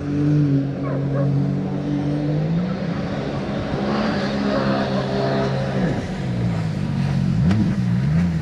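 Mercury 9.8 outboard motor running under way, its pitch rising about two and a half seconds in, then dipping and rising again several times near the end.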